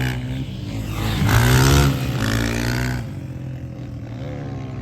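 Dirt bike engine revving: the pitch climbs about a second in and holds at its loudest for about a second, then falls away about three seconds in, with a shorter rev near the end.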